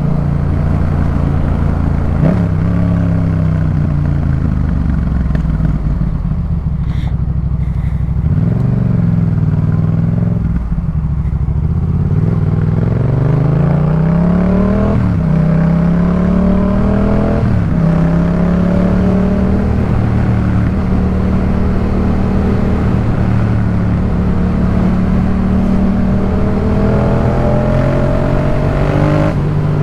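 2018 Yamaha MT-07's parallel-twin engine through a Jeskap K4 full aftermarket exhaust, accelerating hard. The revs climb and drop sharply at each upshift, twice in quick succession midway, then hold a steady cruise with a slow rise near the end.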